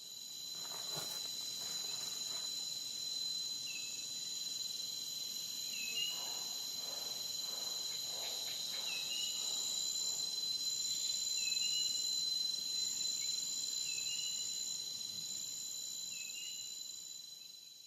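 Steady high-pitched chorus of insects, with a short rising chirp repeating about every second or two; it fades in at the start and fades out at the end.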